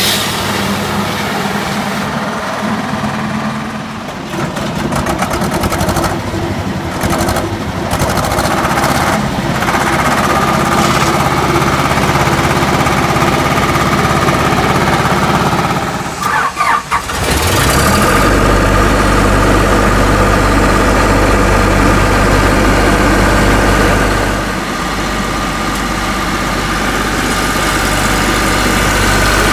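An engine on a hydro-excavation vacuum truck runs steadily. About seventeen seconds in, the sound stutters briefly as an engine starts, then settles into a deeper, heavier idle that runs steadily after that.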